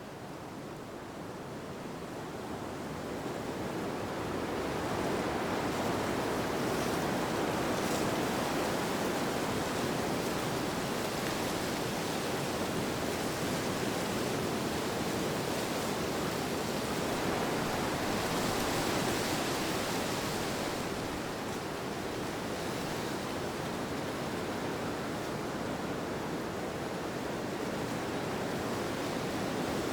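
Wind blowing as a steady rushing noise, swelling over the first few seconds and again briefly about two-thirds of the way in.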